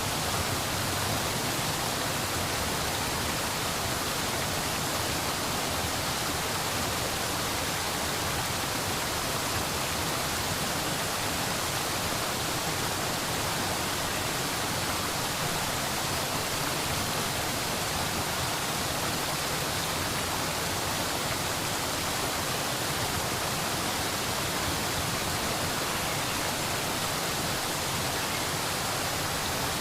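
Steady, even rushing of water, with no change or break.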